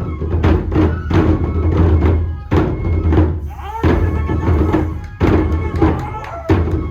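Live traditional Japanese festival music for a nenbutsu kenbai sword dance: loud drum beats in a repeating pattern, mixed with clacking percussion strikes.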